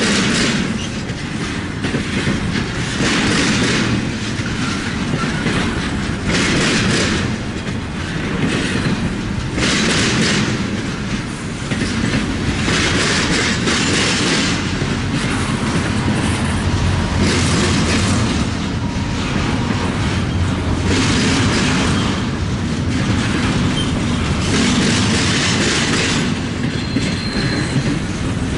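Freight train cars rolling past, wheels clacking on the rails over a steady rumble. A louder rattle comes about every three and a half seconds as each car goes by.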